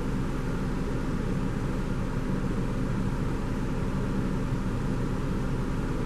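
Steady low engine hum with a constant hiss over it.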